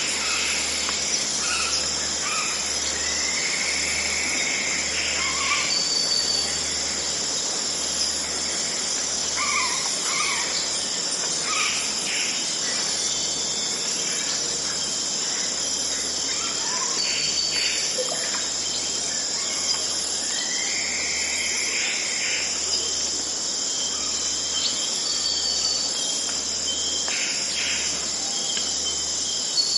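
Forest ambience: a steady, high-pitched insect chorus throughout, with short bird calls scattered over it and a few longer held notes.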